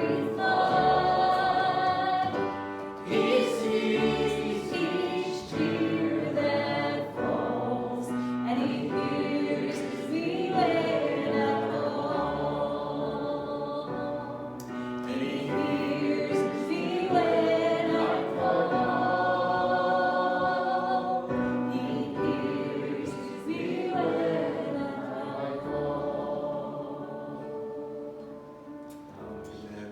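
A congregation singing a worship hymn together, many voices in sustained phrases, fading a little near the end.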